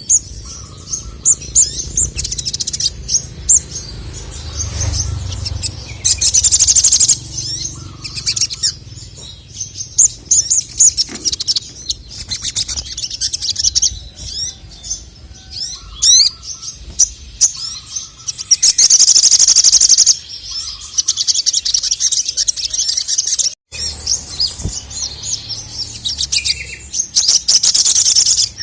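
Male sogon (sogok ontong), a small nectar-feeding bird, singing nonstop in fast high chirps and trills, broken three times by long dense buzzy trills that are the loudest parts.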